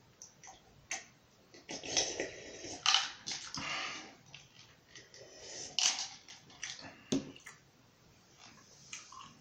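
Close-miked eating sounds: chewing and mouth noises in irregular bursts, loudest about two to four seconds in.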